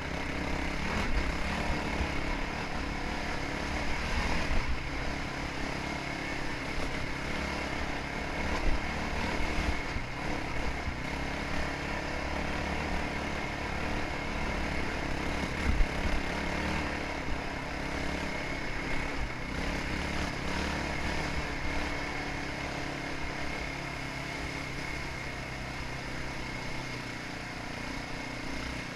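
Motocross dirt bike engine running steadily under way, with uneven low rumble and a few sharp knocks.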